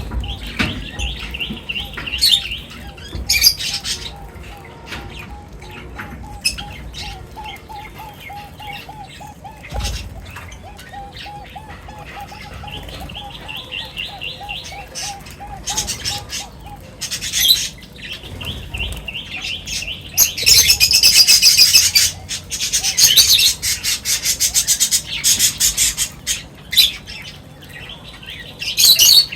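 Several birds chirping and calling while feeding, with short high chirps throughout and a long run of rapid, lower repeated notes in the middle. About two-thirds of the way through, a dense, loud burst of high chirping takes over.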